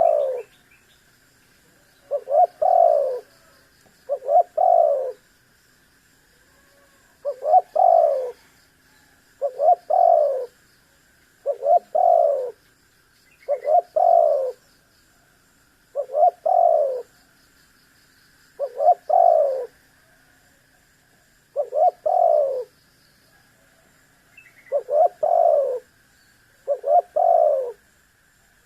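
Spotted dove (tekukur) cooing: a short phrase of two or three coos repeated about every two to three seconds, a dozen times, over a faint steady high hum.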